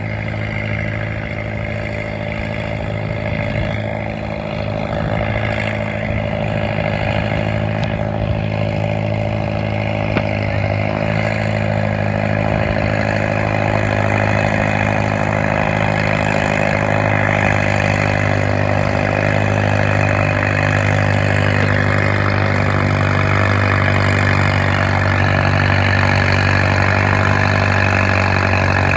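Farm tractor engine running hard in a tractor pull, a steady drone that slowly grows louder.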